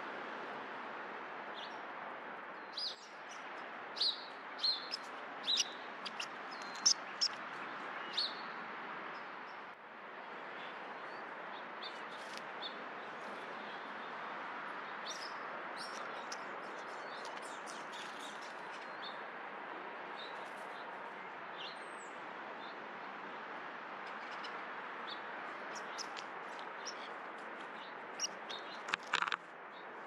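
Small backyard songbirds chirping, short high calls scattered throughout and bunched in quick runs, the loudest a few seconds in, over a steady background hiss.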